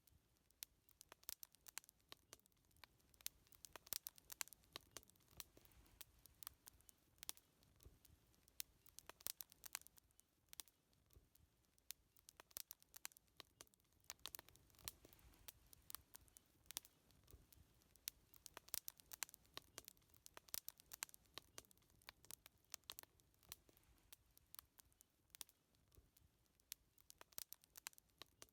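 Wood fire crackling quietly: irregular sharp pops and snaps, several a second, over a faint low rumble of burning.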